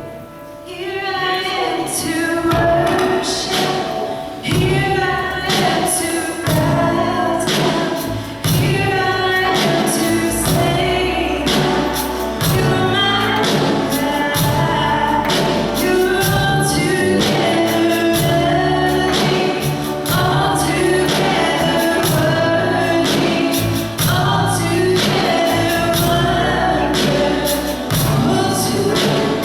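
Gospel song with group singing over instrumental accompaniment, a steady beat and a bass line, starting up about a second in.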